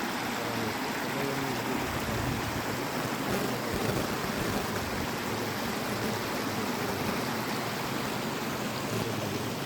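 Steady rush of water pouring and churning through a canal siphon.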